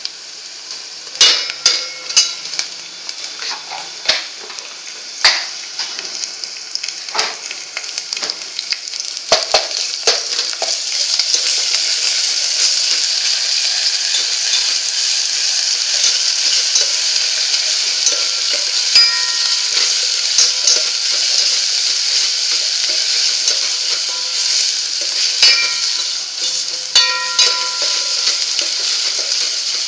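Tadka for kadhi frying in hot oil in a pan: a sizzle with a spoon stirring and knocking against the pan. The sizzle grows louder and steadier about a third of the way in, with clicks and clinks of the spoon throughout.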